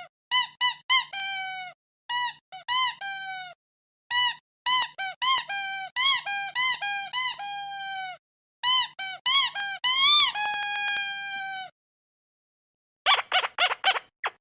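Rubber squeaky dog toy squeezed again and again: quick squeaks in twos and threes, several drawn out into a longer squeak that falls in pitch. Near the end, four short noisy bursts in quick succession.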